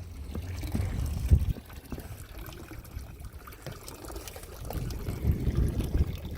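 Water lapping and trickling against a boat's hull, over a low uneven rumble, with one louder knock about a second in.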